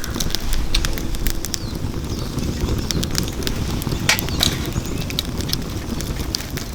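Wood fire burning in a steel fire pit: a low steady rush of flame with irregular crackles and pops from the burning logs, a few sharper pops about four seconds in.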